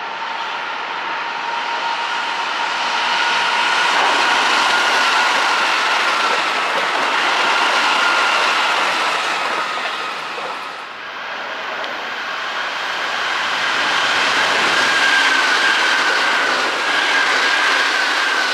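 Keihan Railway electric train running by on the rails: a dense rumble of wheel and rail noise carrying a thin, high whine that drifts slowly in pitch, swelling in loudness twice.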